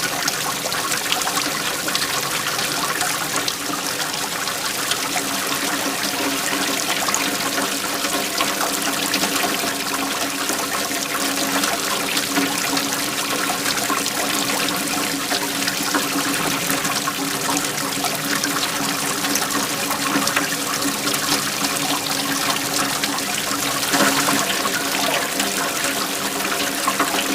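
Waterfall: water flowing and splashing steadily.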